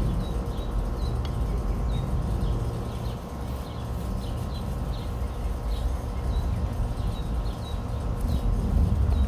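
Outdoor ambience: a bird chirping, short high chirps about twice a second, over a steady low rumble.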